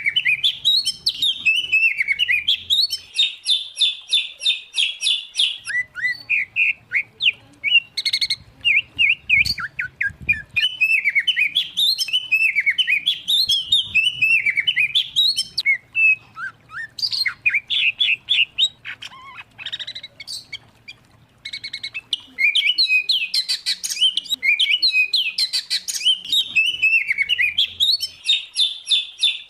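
A mix of white-rumped shama, oriental magpie-robin and greater green leafbird song: rapid, varied whistles, chirps and trills following one another almost without pause, with a brief lull about twenty seconds in.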